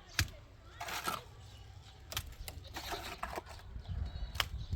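A sharp knock just after the start and another near the end, with short scraping sounds between them over a low rumble.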